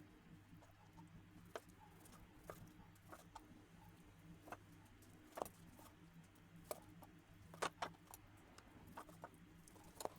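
Faint, irregular knife taps and clicks on a chopping board as raw chicken breast is cut into pieces, over a low steady hum.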